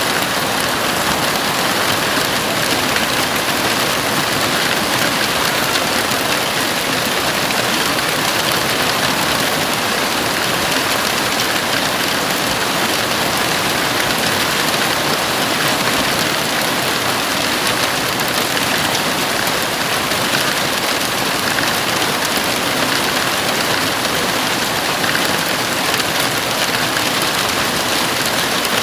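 Heavy rain drumming steadily on a house roof, a dense even hiss with no distinct drops or thunder.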